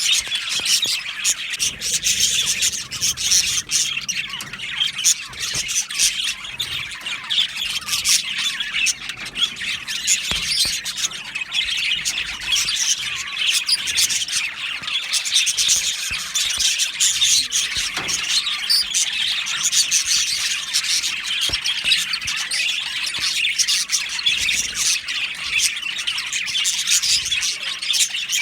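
A colony of budgerigars chattering, with many overlapping chirps, warbles and squawks in a steady, continuous din.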